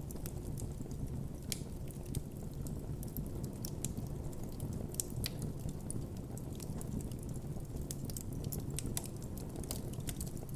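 Wood campfire crackling: frequent irregular small pops and snaps over a low, steady rumble.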